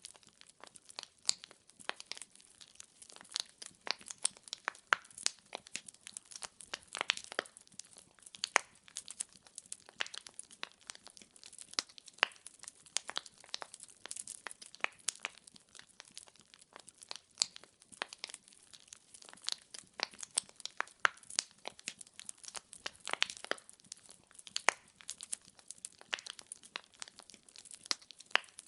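Wood fire crackling: burning logs popping and snapping in quick, irregular clicks over a faint hiss, with no music.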